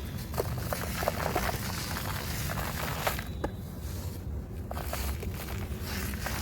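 Dry, crispy material being crushed and crumbled, giving a run of sharp crunches and crackles over a steady low hum. The crackling thins out a little past the middle, then picks up again.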